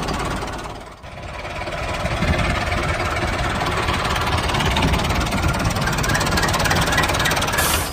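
Motor of a mini RC tractor running with a fast, even pulse. It dips briefly about a second in, picks back up, and cuts off suddenly near the end.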